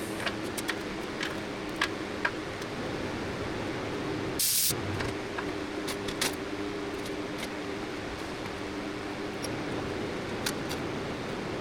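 Steady machine hum with scattered light clicks and ticks, and one brief sharp hiss about four and a half seconds in.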